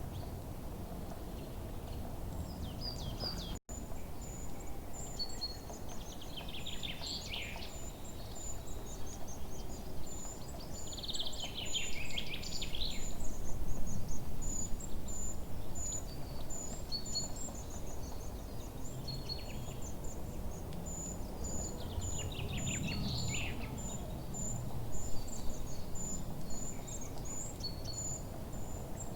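Forest ambience: songbirds singing in a few louder bursts over a rapid, steady string of very high chirps, with a low rumble of background noise underneath.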